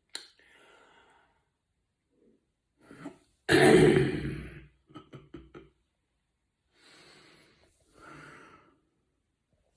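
A man's breath sounds between sentences. A loud sudden breath or cough comes about three and a half seconds in, followed by a few small mouth clicks and two quieter breaths later.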